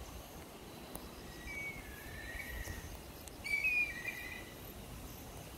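A bird calling in two short phrases of chirping, gliding notes, the second phrase louder, over a low outdoor rumble.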